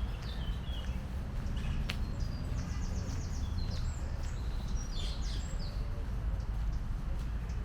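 Small songbirds chirping, with a quick high trill partway through, over a steady low background rumble.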